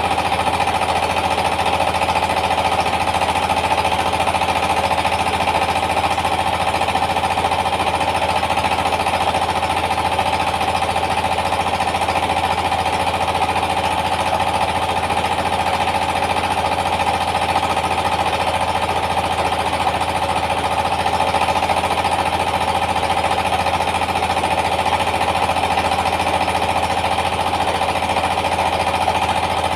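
Rice mill driven by a Yanmar TS 230 single-cylinder diesel engine, running steadily at working speed with a dense, rapid knocking that does not change.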